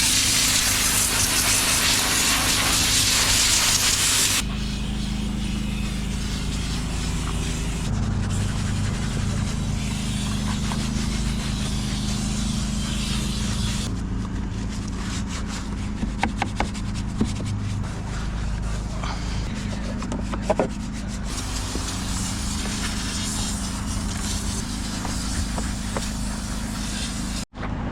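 Car-detailing equipment at work inside a truck cab: a steady hissing rush over a constant machine hum, changing abruptly several times, with a few short clicks about two-thirds of the way through.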